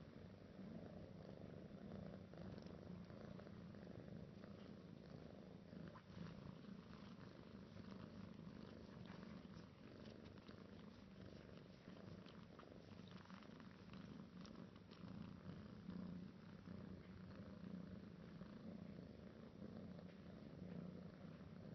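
A four-month-old kitten purring steadily, with a few faint ticks and rustles over it.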